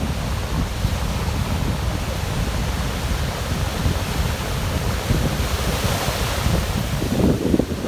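Strong wind buffeting the microphone in uneven gusts over a steady rush of surf, with a stronger gust near the end.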